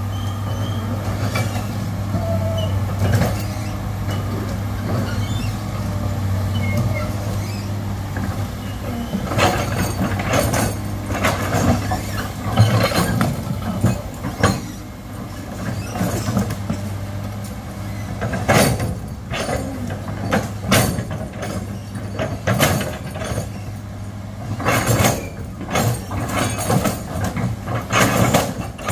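Heavy diesel engine running steadily, with repeated sharp knocks and clanks setting in about a third of the way through.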